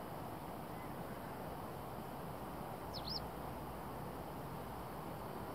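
A bird's short, high call, once about three seconds in, over a steady low rush of outdoor background noise.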